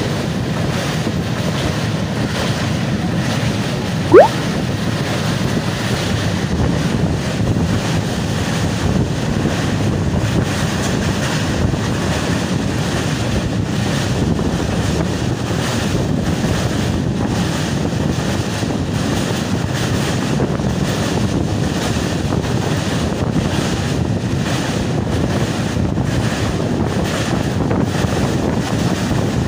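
Steady rumble of a moving passenger train, with wind buffeting the microphone. About four seconds in there is a single brief, loud, rising chirp.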